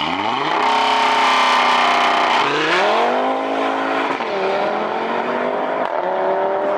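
Car engine revving hard: its pitch climbs at the start, climbs again about two and a half seconds in, dips briefly near four seconds and is then held high.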